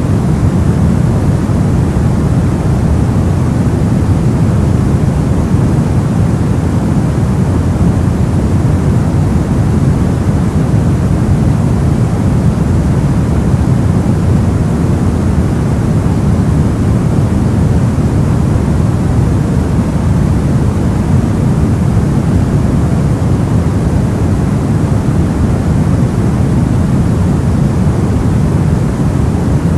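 Soft white noise for sleep: a steady, even hiss weighted toward the low end, deep rather than bright, with no change or break.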